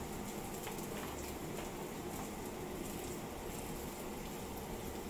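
Chopped onions and spice powder frying in oil in a nonstick pan over a gas burner: a steady sizzle with occasional faint crackles.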